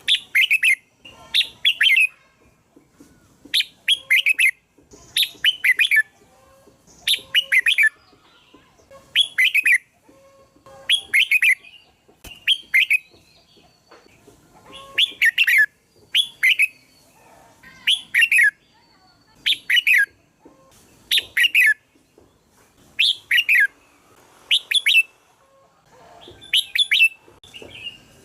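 Red-whiskered bulbul singing: short, fast warbled phrases repeated roughly once a second, often in pairs, over and over.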